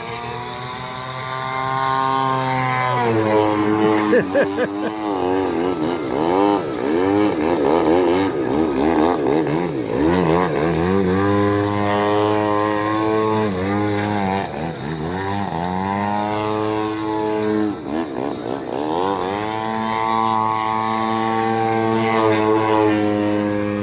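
Engine of a radio-controlled model airplane flying aerobatics. It holds a steady note at first, then its pitch swoops up and down again and again through the middle as the plane manoeuvres, before settling to a steady note again near the end.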